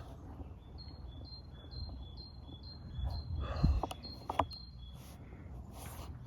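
A small bird calling a short high note over and over, about twice a second for some four seconds. A few dull thumps and clicks of handling noise come near the middle.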